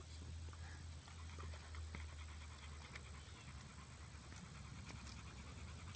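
Faint panting breaths over a low steady hum.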